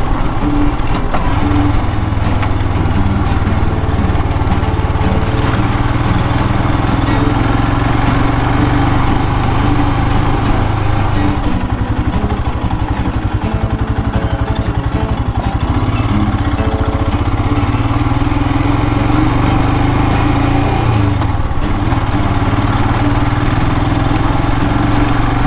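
Royal Enfield Himalayan's single-cylinder engine running steadily while the motorcycle is ridden, its note dipping briefly and recovering about twenty-one seconds in.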